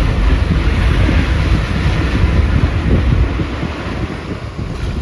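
Rumble and rushing wind of a moving bus, with wind buffeting the microphone, easing slightly near the end.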